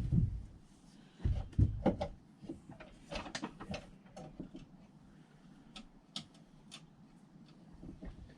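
Scattered light clicks and knocks of metal outboard parts and tools being handled, with a couple of louder bumps between one and two seconds in.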